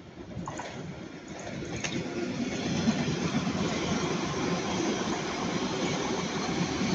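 Electric passenger train running past on the line, its wheel and running noise building over the first three seconds and then holding steady.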